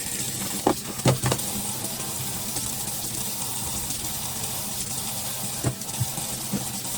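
Kitchen tap turned on and running a steady stream of water into the sink, with a few sharp knocks of dishes or utensils about a second in and again near six seconds.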